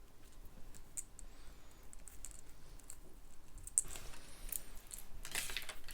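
Small plastic clicks and crinkling as an LED light string is opened out of its packaging and handled, with a denser, louder run of crackling near the end.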